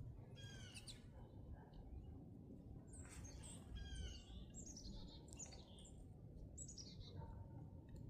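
Northern cardinals calling: faint, quick runs of sharp down-slurred notes, one brief run about half a second in and a busier, overlapping series from about three to seven seconds in.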